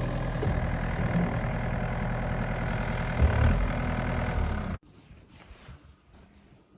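An engine idling steadily, with one knock about three seconds in. The engine sound stops abruptly at about five seconds, leaving near quiet.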